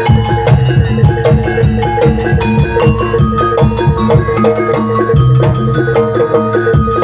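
Javanese gamelan music: metallophones ringing a steady repeating melody over a busy pattern of hand-drum strokes.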